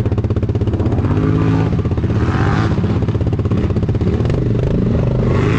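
ATV engines: one idling with a steady, pulsing beat, and from about a second in, engines revving up and down over it.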